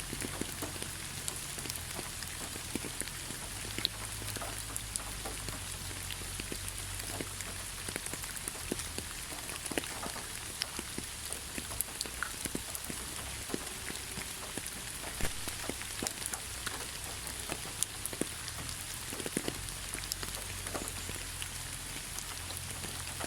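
Heavy rain falling steadily, a continuous hiss with many individual drops pattering and splatting on a surface.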